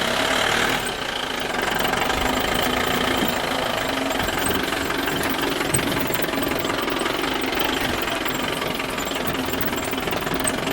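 A small engine running steadily with a knocking rattle.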